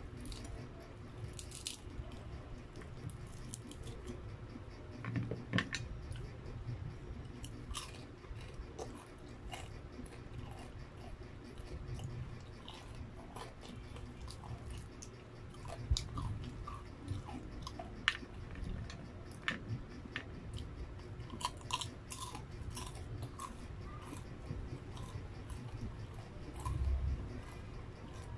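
Chewing and crunching of breaded, deep-fried chicken proben (proventriculus), with many short sharp crunches scattered throughout.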